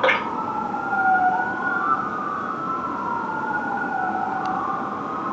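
Fire engine siren wailing on an emergency response, its pitch sweeping slowly up and down with two overlapping tones.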